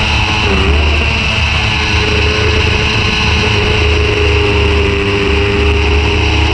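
Sport motorcycle engine running at high revs on track, heard from an onboard camera under heavy wind buffeting; its steady tone dips briefly and recovers about half a second in.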